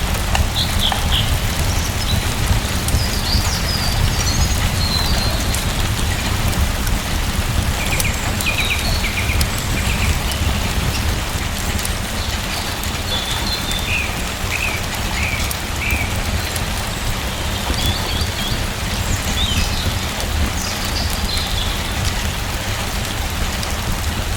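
Steady rain falling, with small birds chirping now and then through it.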